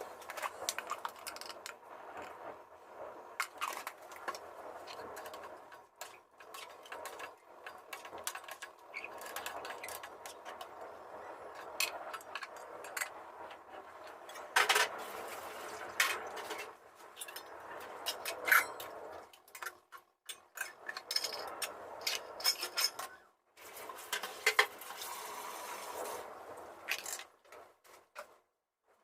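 Kitchen utensils and cookware clinking and knocking: a long run of sharp irregular clinks over a continuous hiss, with the sound cutting out abruptly a few times.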